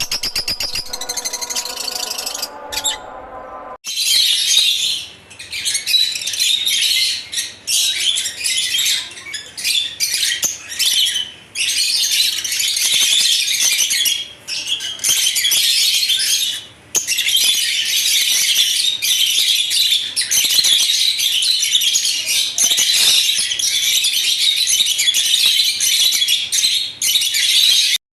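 Lovebirds chirping in dense, high-pitched bouts with brief pauses between them. The chirping starts about four seconds in, after a short stretch of rapid, even clicking, and cuts off suddenly near the end.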